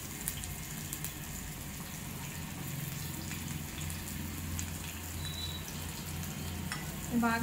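Chopped onion, green chilli and curry leaves sizzling steadily in hot oil in a kadai, with scattered small pops and crackles.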